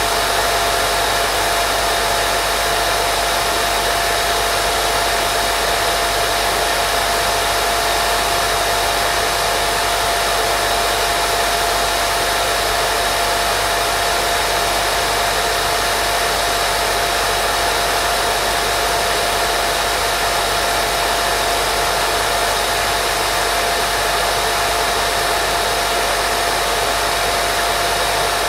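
Steady white noise for baby sleep: a constant, unchanging hiss with a steady mid-pitched tone running under it.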